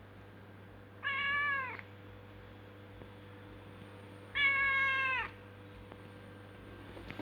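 Domestic cat meowing twice, about three seconds apart; each meow holds its pitch and then falls away at the end.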